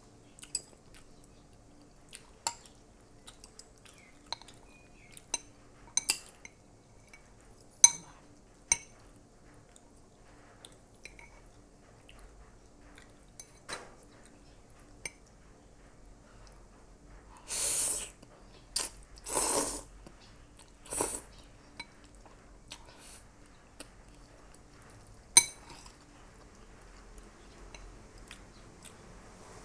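Eating with a fork from a meal container: scattered sharp clinks and taps of the utensil against the dish, with quiet chewing between. Three longer, louder noises come about two-thirds of the way through.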